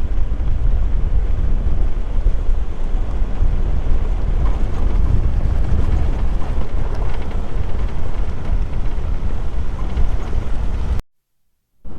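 Vehicle driving, a steady low rumble under heavy wind buffeting on the microphone; it cuts off suddenly about a second before the end.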